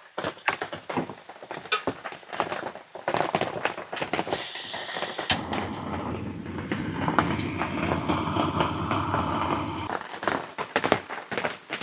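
Clicks and knocks of camp cookware being handled. Then, from about four seconds in, hot water is poured from a Jetboil stove's pot into a cup for several seconds, and a few more knocks come near the end.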